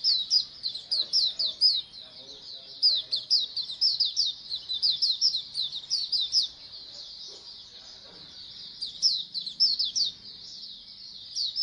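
A group of white-eyes (pleci) singing together: fast runs of high, quick downslurred chirps in bursts of a second or more, with short lulls in between.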